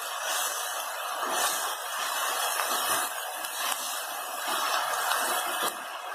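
Chopped elephant foot yam leaves sizzling in a hot metal wok as a spatula stirs them. The hiss swells and eases with each stroke, about once a second, and drops slightly near the end.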